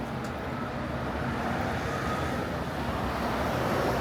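Street traffic: a road vehicle's tyre and engine noise swells, loudest near the end as it passes close.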